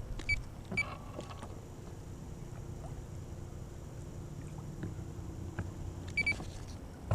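Steady low hum of a small fishing boat on the water, with short high electronic beeps near the start and again near the end.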